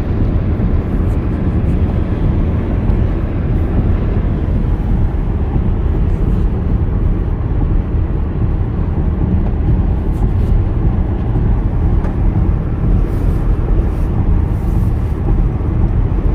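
A car driving on a snowy road, its steady low engine and tyre rumble heard from inside the cabin.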